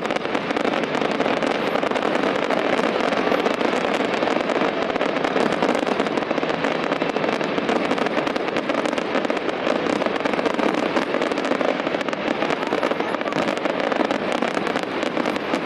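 Fireworks display going off in a dense, continuous crackle of many small pops and bangs, steady throughout.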